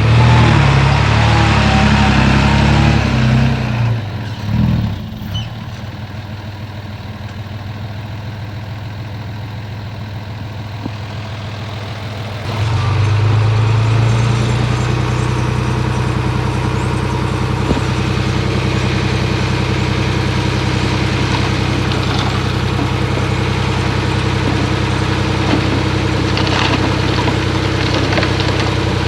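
Heavy diesel earthmoving engines. One runs loud and fades after about four seconds. About twelve seconds in a louder one comes in and runs steadily to the end.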